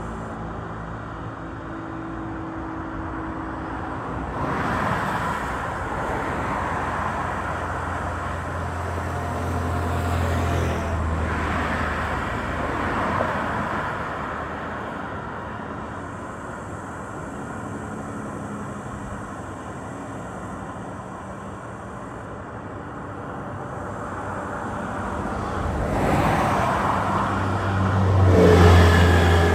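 Highway road traffic: a steady wash of tyre and engine noise, with vehicles passing close three times, the loudest near the end, over a low engine hum.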